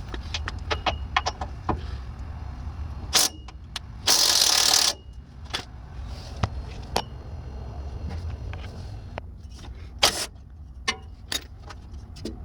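Hand tools clicking and knocking on metal at a truck's transmission extension housing seal, with one loud hiss-like noise lasting about a second around a third of the way in, over a steady low hum.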